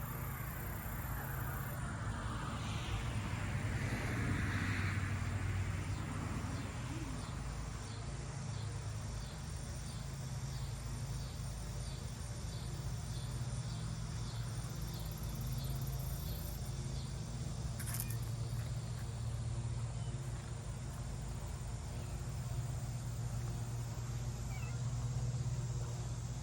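Kitten meowing, with a steady low hum underneath.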